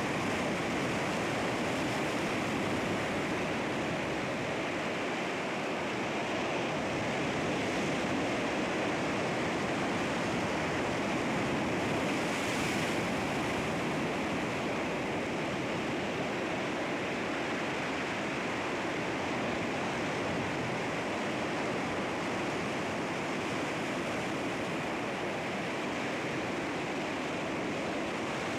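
Sea waves breaking and washing against rocks: a steady rushing surf that swells and eases slightly, with a brighter wash about halfway through.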